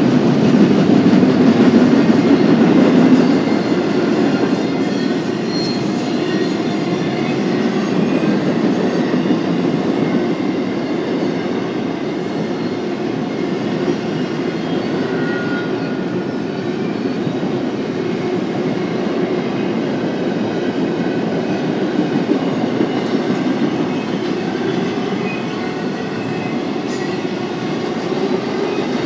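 Intermodal freight train's cars rolling past: a steady rumble of steel wheels on rail, a little louder in the first few seconds, with faint wheel squeals here and there.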